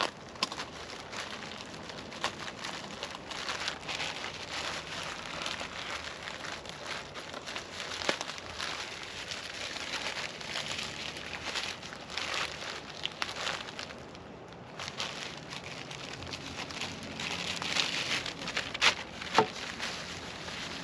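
Packaging being handled and unwrapped: continuous crinkling and rustling, with a few sharp clicks and taps, a short lull about two-thirds of the way in, and busier crinkling near the end.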